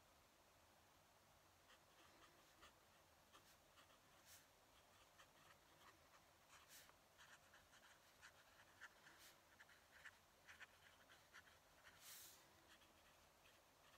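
Faint fountain pen nib scratching on paper in short, irregular strokes, starting about two seconds in, with a brief soft swish near the end.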